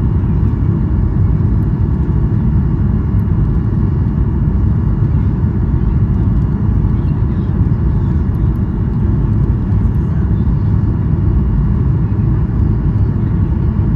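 Cabin noise of a Boeing 737-800 rolling on the ground just after landing: a steady low rumble from its CFM56 engines and the wheels, with a faint steady whine above it.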